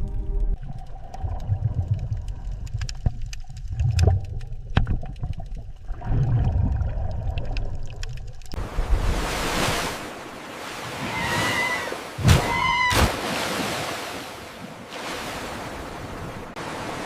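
Sea-water ambience. First comes a low underwater rumble with scattered clicks. About eight seconds in it changes suddenly to a steady wash of water, and two short pitched calls sound near the middle.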